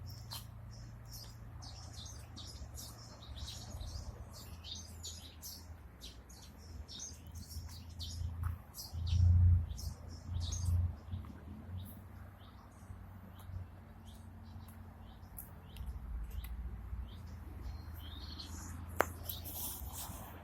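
Small birds chirping over and over, over a low rumble that swells loudest about nine to eleven seconds in. A single sharp click comes near the end.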